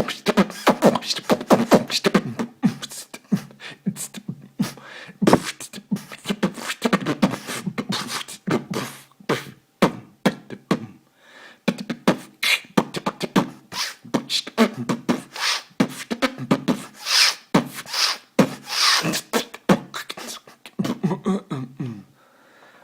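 Beatboxing: a fast run of mouth clicks and percussive pops, with a few longer hissing sounds in the latter half, recorded on an older smartphone with almost no bass.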